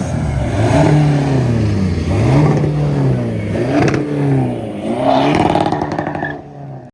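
A car engine revved over and over, its pitch climbing and dropping smoothly about four times in free revs. The sound cuts off suddenly at the end.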